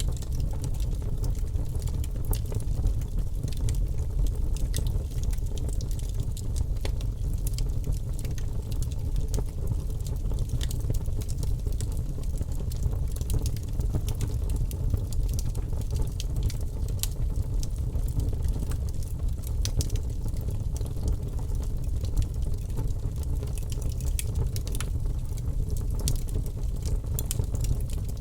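Wood fire burning in an open fireplace: a steady low rumble of flames with frequent small, sharp crackles and pops from the burning wood.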